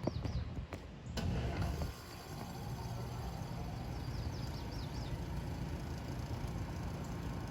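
2016 American Standard Silver 14 outdoor air conditioner starting up: it kicks on in the first second or so, then settles into a steady hum. Birds chirp briefly at the start and again about four seconds in.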